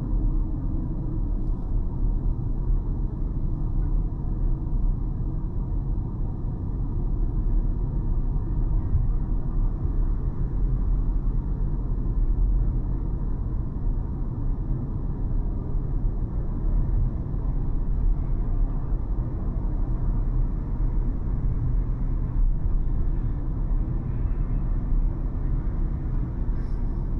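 A car driving steadily on a city road: a constant low rumble of engine and tyre noise.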